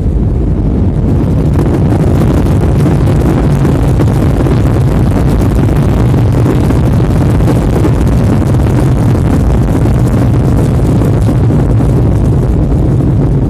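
Loud, steady rumble of an Airbus A320 heard from inside the cabin during landing: engine and airflow noise. It swells slightly about a second and a half in.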